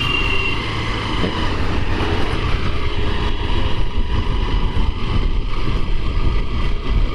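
Motorcycle running along a road, its steady engine noise mixed with low wind rumble on the rider's microphone. A brief high tone sounds right at the start.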